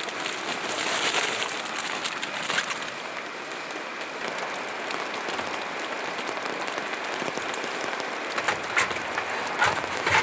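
Steady rain falling on a surface, with a few louder taps near the end.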